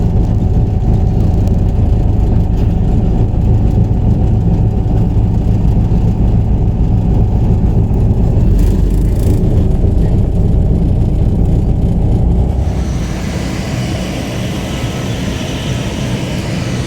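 A heavy engine running with a loud, steady low rumble and a few held tones. About twelve seconds in, the rumble drops and a higher hiss takes over.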